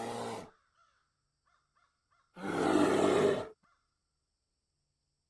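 Polar bear roaring twice: a first roar that dies away about half a second in, and a second, louder roar lasting about a second, starting near the middle.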